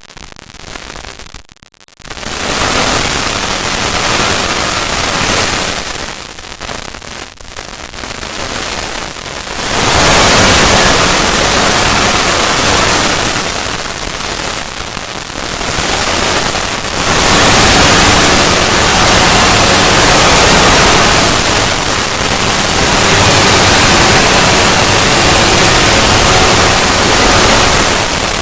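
Loud, harsh static-like noise from a heavily distorted logo sound effect. It drops out briefly near the start and again around seven seconds in, then swells louder about ten seconds in and stays high.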